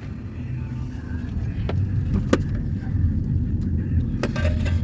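A steady low rumble under a few sharp metallic clicks and clinks of hand tools working on a bolt, about two seconds in and again near the end.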